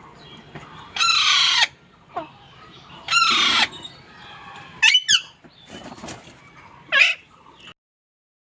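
Green parrot giving loud, harsh squawks: two long calls about one and three seconds in, then shorter, sharper calls around five and seven seconds. The sound cuts off abruptly near the end.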